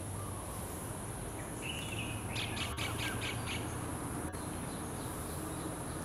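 A bird calling: a short call about two seconds in, then a quick run of about six sharp notes, and another short call near the end, over a steady high-pitched hiss.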